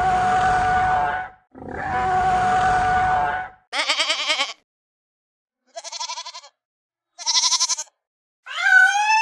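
Two long, harsh calls, then three short quavering bleats, and a call that bends up and down near the end.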